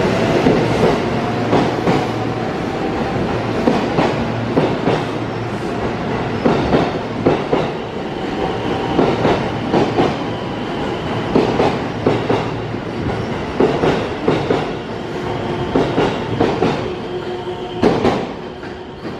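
JR electric train running along the platform track, its wheels clicking repeatedly over rail joints with a steady rumble of running noise throughout.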